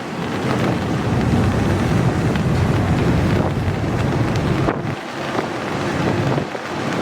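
Wind buffeting the microphone in gusts, over the steady rumble of a long, slow freight train passing.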